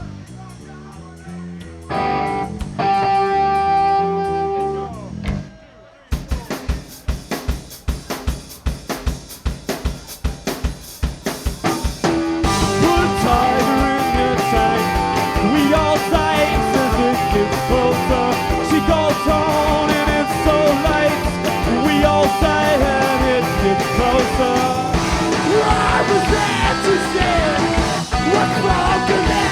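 Live rock band starting a song. A held pitched note rings for a few seconds, then drums play a steady beat alone from about six seconds in, and the full band with guitars comes in loudly at about twelve seconds.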